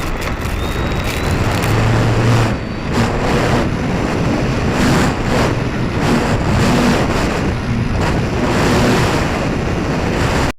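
Heavy wind rushing over an onboard camera's microphone on a Durafly Spitfire radio-controlled model plane, with its electric motor and propeller running underneath.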